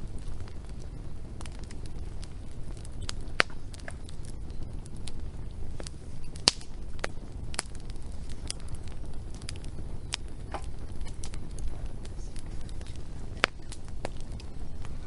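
Wood fire crackling, with irregular sharp pops, the loudest about three and a half, six and a half and thirteen and a half seconds in, over a steady low rumble.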